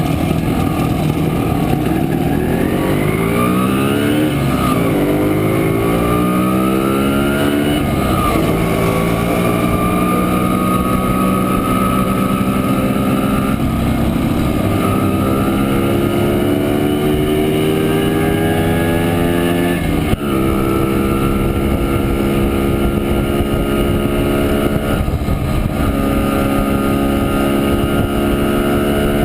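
A 1967 Montesa Impala Comando 175 cc two-stroke single-cylinder engine under way. Its pitch climbs over the first several seconds as it accelerates, then rises slowly. About twenty seconds in the pitch drops suddenly, as at a gear change, and the engine then runs steadily.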